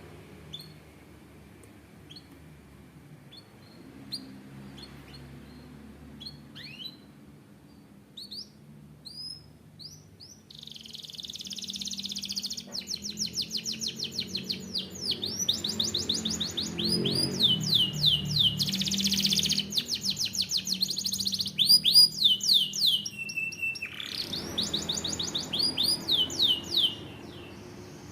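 Canary singing: a few scattered chirps, then from about ten seconds in a loud song of rapid trills made of quick falling notes, broken by a short held whistle near the end.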